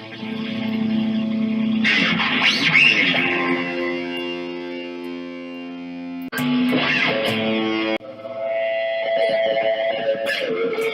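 Electric guitar played through overdrive and distortion effects, letting long notes ring out with their harmonics, with new notes struck about two, six and nine seconds in.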